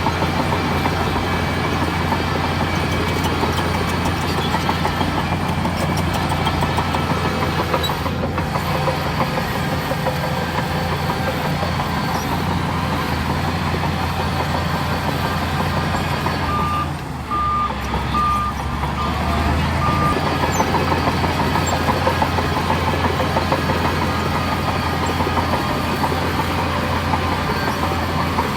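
Heavy diesel earthmoving machinery running steadily under load, with a strong low drone. About two-thirds of the way in, a short row of high, evenly spaced reversing beeps sounds briefly.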